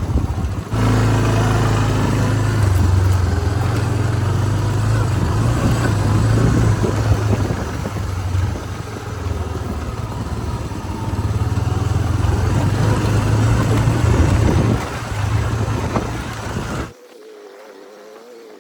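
Small gasoline engine of an off-road vehicle running steadily while riding, with a loud low hum and rushing noise. It cuts off suddenly near the end to a much quieter scene.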